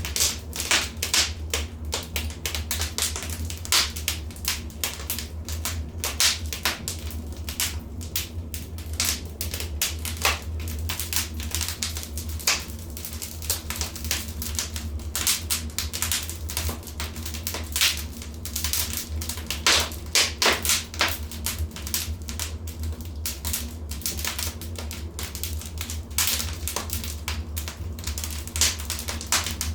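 Wood fire crackling in a fireplace: a dense, irregular run of sharp snaps and pops, some much louder than the rest, over a steady low rumble.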